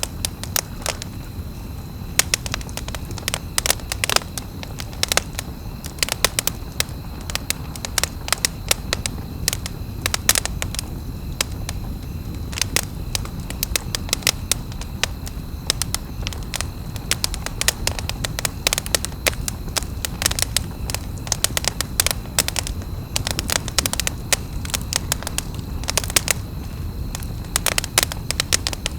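Campfire crackling: many irregular sharp pops and snaps from burning wood over a steady low rumble of the flames.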